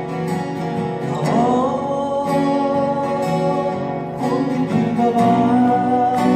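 Live band playing a slow ballad: guitar strumming under long held melody notes, one gliding up about a second in and another held from about five seconds in.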